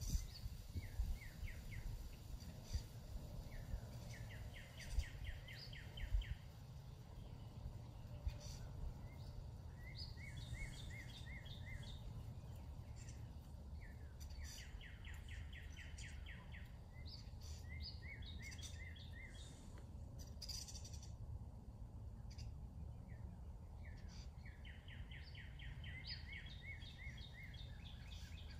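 Songbirds singing rapid trilled songs, each trill lasting one to two seconds and repeated every few seconds, over a steady low rumble. A few low bumps come in the first six seconds.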